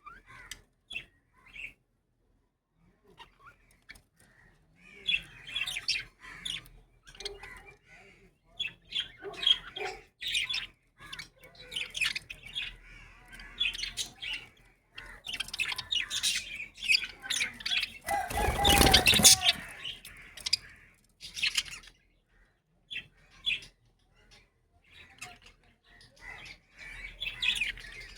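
Show budgerigars chirping and chattering in short irregular bursts, with one brief loud burst about two-thirds of the way through.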